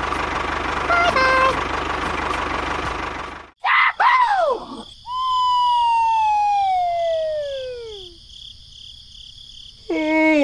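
A steady engine-like rumble with a brief chirp, which cuts off suddenly after about three and a half seconds. Then cartoon sound effects: a few quick falling chirps, a long whistle sliding down in pitch over about three seconds, and another falling tone near the end.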